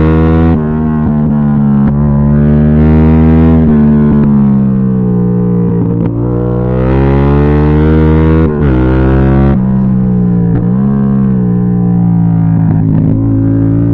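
Yamaha MT-07's CP2 parallel-twin engine under hard acceleration, its exhaust note climbing in pitch and dropping abruptly at gear changes several times.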